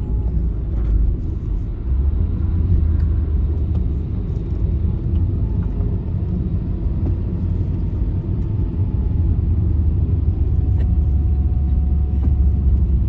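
Road noise of a vehicle moving along a highway: a steady low rumble of engine and tyres, with a faint whine slowly dropping in pitch.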